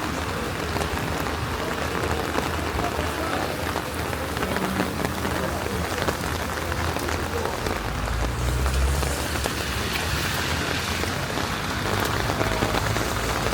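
Steady rain falling on a city street, an even hiss with many small drop ticks. A low rumble joins about eight seconds in.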